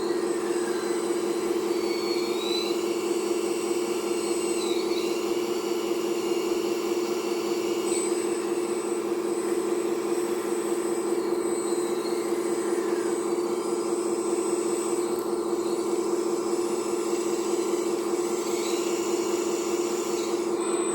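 Hydraulic pump of a radio-controlled Volvo 360L excavator model whining steadily, with fainter higher-pitched whines rising and falling over it now and then as the hydraulics work.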